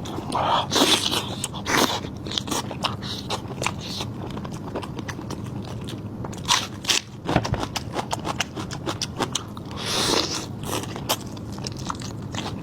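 Close-miked eating of crunchy food: crisp bites and chewing with a steady run of sharp crackles, and louder crunches about a second in, around seven seconds and around ten seconds.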